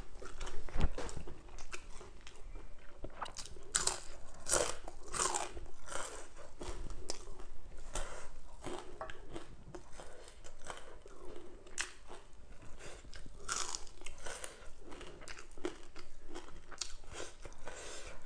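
A person chewing crunchy food with their mouth close to the microphone, an irregular run of crunches and wet mouth sounds, busiest about four to six seconds in and again around thirteen seconds.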